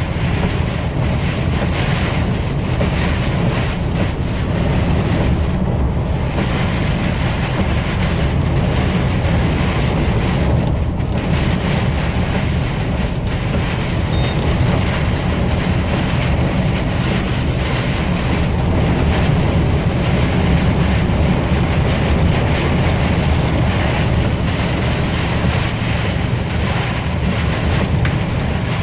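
Storm wind, a steady loud rush with a heavy low rumble and wind buffeting the microphone.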